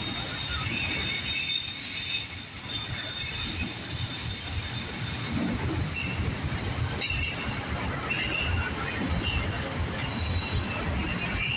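Loaded autorack freight cars rolling past: a steady low rumble of wheels on rail with high-pitched wheel squeal that wavers on and off.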